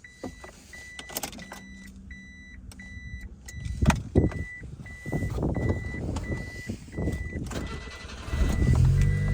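Subaru Sambar kei van being started: an electronic warning chime beeps steadily about twice a second over clicks and knocks, then about eight seconds in the engine catches and settles into a steady idle, the loudest part.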